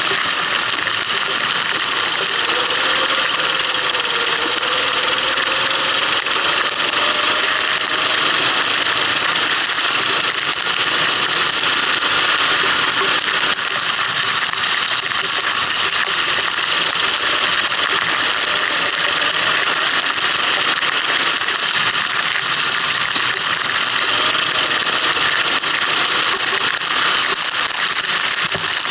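Racing kart engine running under a loud, steady hiss of wind and rain on a wet track, the engine's pitch rising and falling slowly now and then.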